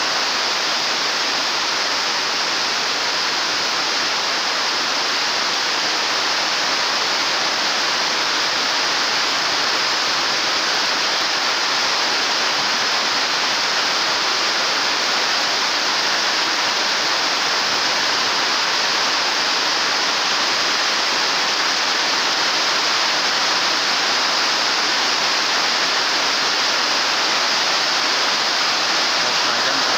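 Heavy rain falling on a roof and the surrounding concrete, a loud, steady, even rush with no let-up.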